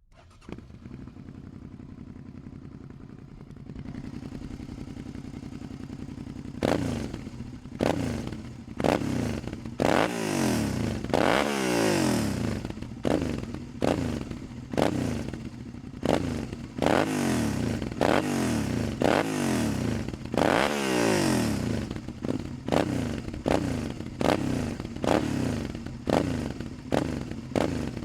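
Suzuki V-Strom 650's 645 cc V-twin running steadily at idle, then from about six seconds in revved again and again in quick blips that rise sharply and fall back, roughly one every second or so, with a few longer, higher revs in the middle.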